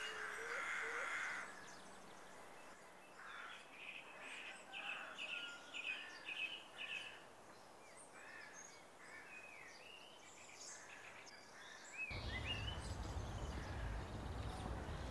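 Faint birdsong: many short chirps and quick up-and-down calls repeating over several seconds. About twelve seconds in, a steady low outdoor rumble starts under the birds.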